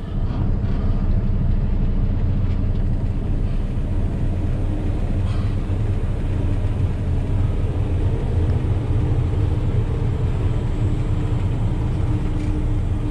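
Loaded log truck's diesel engine running steadily under way, a dense low rumble.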